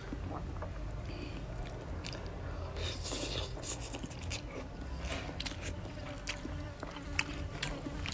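Close-miked chewing and biting of raw crab with papaya salad and rice noodles: a run of short, sharp mouth clicks and crunches, with a brief noisier burst about three seconds in.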